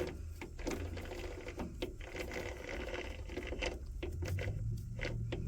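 Scattered light metallic clicks and knocks from the jaws of a lathe chuck being worked by hand, over a steady low hum.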